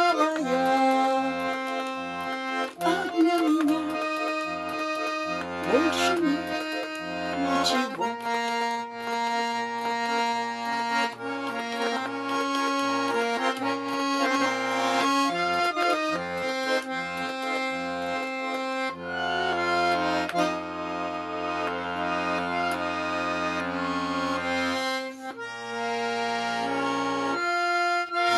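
Garmon (Russian button accordion) playing the instrumental ending of a folk song. A melody runs over bass-and-chord buttons pumping in a steady rhythm, then gives way to a long held bass chord in the last third.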